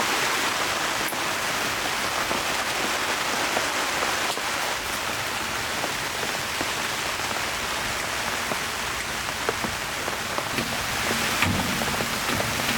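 Heavy rain falling steadily: a dense, even hiss with many scattered sharper drop taps.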